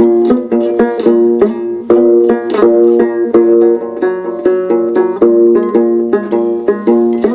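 Instrumental break in a song: fast picked notes on a string instrument, with no singing.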